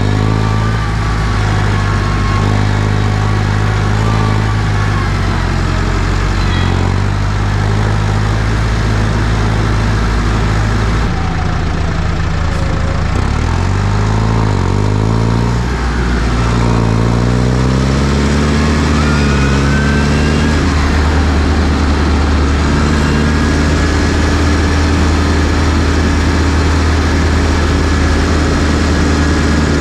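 New Holland T6040 tractor's diesel engine running steadily. About a third of the way in its note changes, dips and rises in pitch for a few seconds, then settles to a steady note again.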